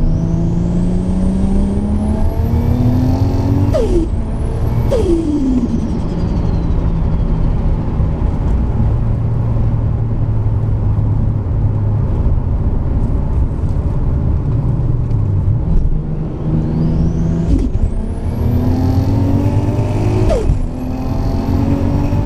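Single-turbo Toyota Supra's 2JZ-GTE straight-six accelerating hard, with a high turbo whistle rising as the engine note climbs. Both cut off sharply at the upshifts about 4 and 5 seconds in, and the whistle winds down slowly as the throttle eases. After a steady cruise, the car pulls hard again from about 17 seconds in, with another shift near 20 seconds.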